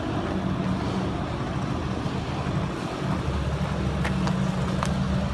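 Husqvarna 236R two-stroke brush cutter with a nylon trimmer line head, its engine running steadily. The low end gets fuller about three seconds in, and a few sharp ticks come near the end.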